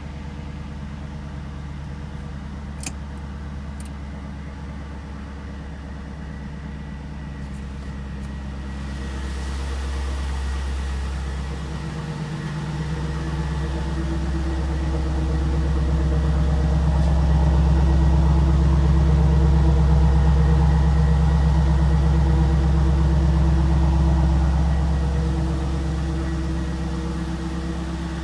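2002 Pontiac Trans Am's 5.7-litre LS1 V8 idling steadily after a cold start. The pitch holds steady throughout, while the sound grows louder from about ten seconds in and eases off near the end.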